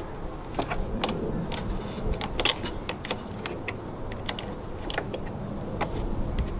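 Small metal clicks and clinks of a wrench or ratchet working the negative battery terminal bolt, coming at an uneven pace with a louder clink about two and a half seconds in.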